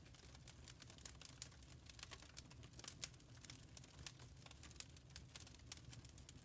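Faint wood fire crackling in a fireplace: irregular quick snaps and pops, several a second, over a soft low rumble of the flames.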